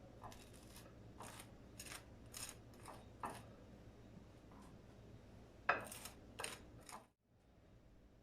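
A series of light clicks and knocks from household items being handled, about eight in all, with the loudest near the six-second mark. The sound cuts off abruptly a little after seven seconds.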